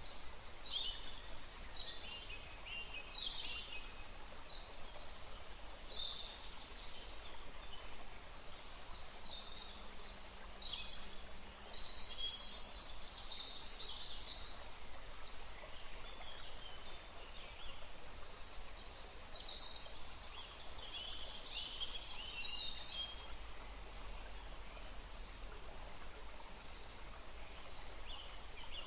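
Wild birds chirping and trilling in short phrases, in clusters about a second in, around ten to thirteen seconds in, and around nineteen to twenty-three seconds in, over a steady rushing background of wind or water.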